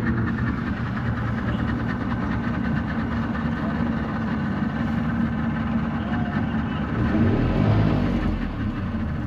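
Boat's outboard motor idling steadily, with a brief rise in low rumble about seven seconds in.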